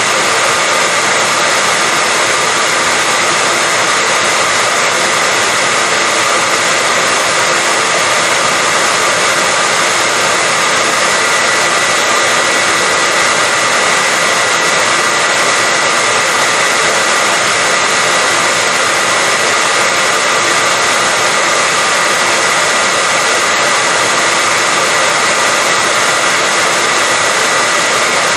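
Hair dryer running steadily at a constant speed: an even, loud rushing of air with a steady whine on top, unchanging throughout.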